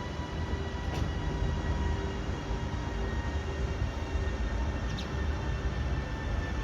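A double-decker passenger train running: a steady low rumble with a faint steady whine, and two short clicks, one about a second in and one near the end.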